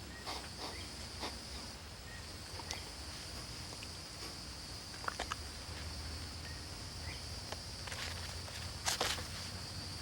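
Faint scuffling and soft light taps of kittens playing with a live mouse, over a steady background of tape hiss and low hum; a slightly louder scuffle comes about nine seconds in.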